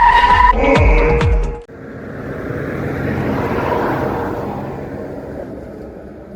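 Tyre squeal of a skidding vehicle with engine notes falling in pitch, cut off abruptly about a second and a half in. Then a swell of noise rises and fades away.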